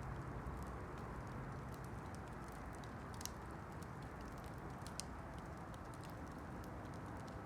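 Campfire crackling: scattered small snaps over a steady low hiss, with two sharper pops a little after three seconds and about five seconds in.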